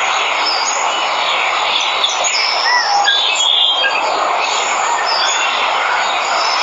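Waterfall rushing steadily, with jungle birds giving many short chirps and whistles over it.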